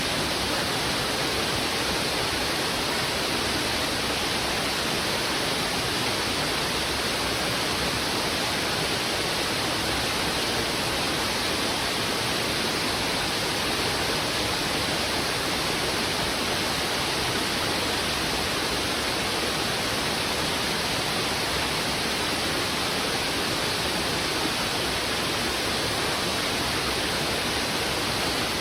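Heavy river water rushing over rocks in a strong current: a steady, unbroken rush of flowing water.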